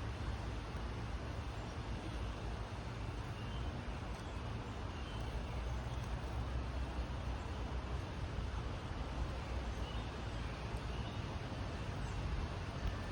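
Steady low outdoor background rumble with a hiss, with a few faint, short, high bird chirps.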